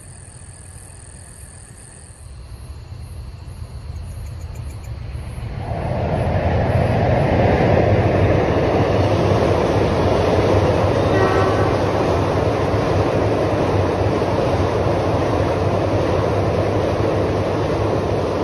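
The KA Senja Utama Solo passenger train approaching and crossing a steel truss railway bridge: its rumble builds over the first few seconds and stays loud and steady from about six seconds in as the carriages roll across the bridge.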